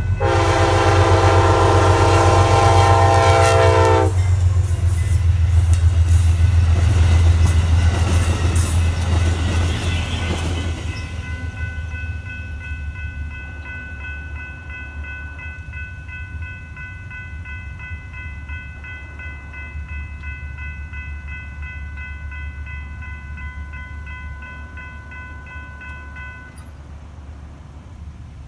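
Diesel passenger locomotive's horn sounding one long, loud chord for about four seconds as it reaches the grade crossing. Then the train rumbles and clatters past on the rails, fading over several seconds. The crossing signal's bell keeps ringing steadily afterwards and stops near the end as the gates begin to lift.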